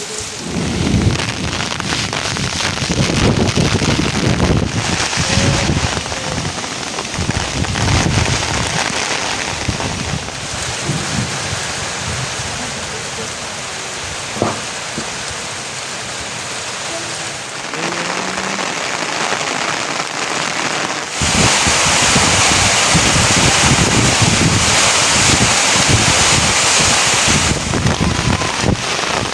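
Steady heavy rain falling. It grows louder and hissier for several seconds near the end.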